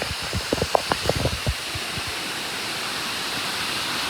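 Waterfall pouring steadily into a pool, with a brief flurry of short splashes in the first second and a half.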